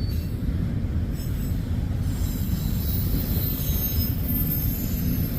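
Freight train autorack cars rolling past with a steady low rumble. About two seconds in, thin high-pitched wheel squeal joins and continues, over wind buffeting the microphone.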